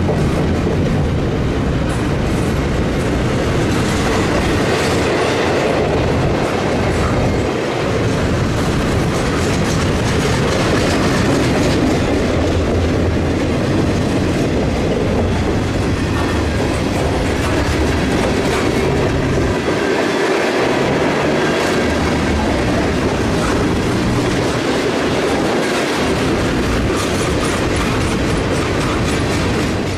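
Norfolk Southern freight cars rolling past, their wheels clacking steadily over the rail joints with a constant rumble.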